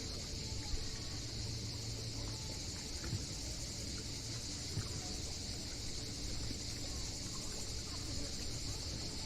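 Cicadas in chorus, a steady high buzz that does not let up, over a low rumble, with a few faint clicks.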